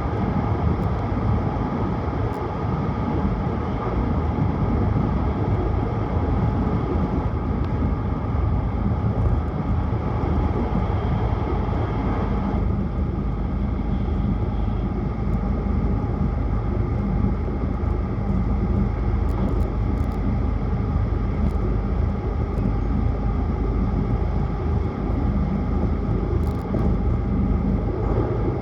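Tohoku Shinkansen train running at speed, heard from on board: a steady low rumble with hiss above it. About twelve seconds in, the higher part of the noise drops a little.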